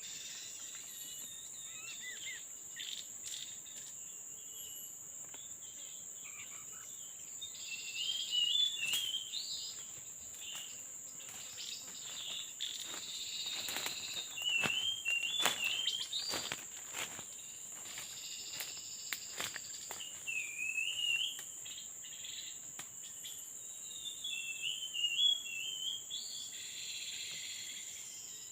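Steady high-pitched drone of forest insects, with a short warbling bird phrase repeated four times, about every five to six seconds, from about eight seconds in. Scattered sharp clicks and snaps between them.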